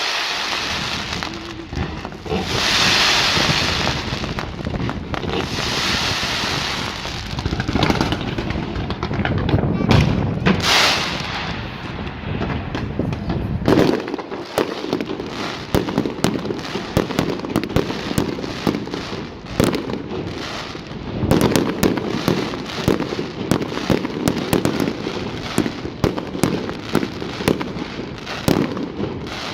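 Fireworks display: a steady run of bangs, pops and crackles, with two long hissing bursts in the first few seconds.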